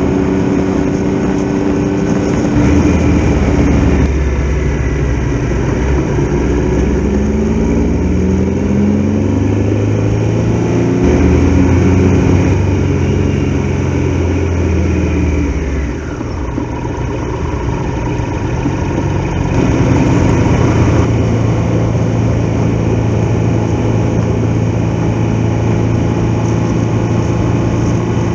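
Triumph Tiger Explorer XRx motorcycle's three-cylinder engine running under way, its note climbing in steps through the first half, falling away with a dip in level a little past halfway, then picking up again.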